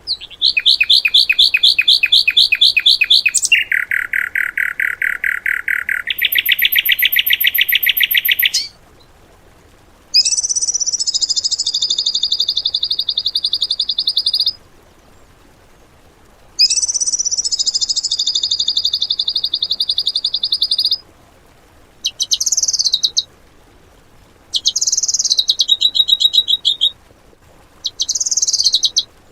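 A songbird singing rapid trills of fast repeated notes. A long unbroken run steps through three pitches over the first eight seconds or so, then the bird gives separate trilled phrases of a few seconds each, shorter and closer together near the end. It is fast 'tembakan' (volley) song of the kind used as isian material to train caged songbirds.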